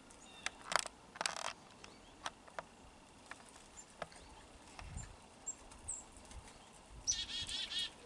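Small songbirds chirping, with a quick run of rapidly repeated notes near the end. Scattered sharp clicks and two short rasping noises come in the first second and a half.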